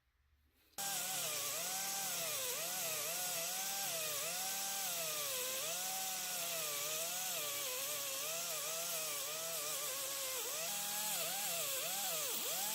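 Electric power tool running, its motor whine starting abruptly just under a second in and dipping and recovering in pitch again and again, as if pressed against the work and eased off.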